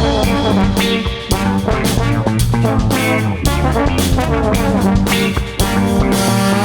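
Live band playing an instrumental passage: a trombone line over drum kit and baritone guitar.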